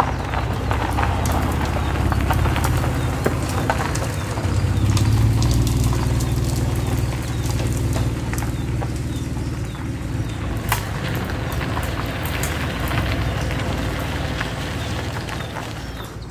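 Honda NSX's V6 engine running at low speed with gravel crunching under the tyres, easing off near the end.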